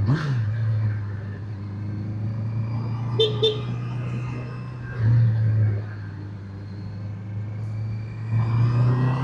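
Motorcycle engine running steadily while riding, swelling briefly louder around five seconds in and again near the end. A short double horn toot sounds about three seconds in.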